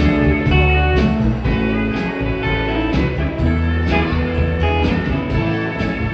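A band playing the instrumental intro of a country-rock song, with picked guitar over a steady bass line.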